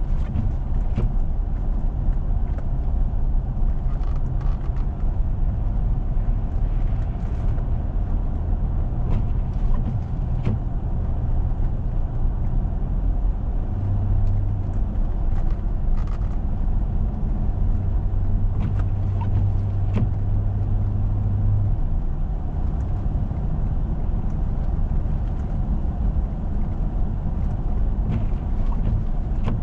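A four-wheel-drive vehicle driving steadily: a continuous low drone of engine and road noise, with the engine hum shifting slightly in pitch and scattered light clicks and knocks.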